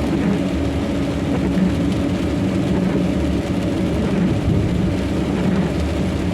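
Steady engine drone and road noise heard inside a truck cab while driving along a highway.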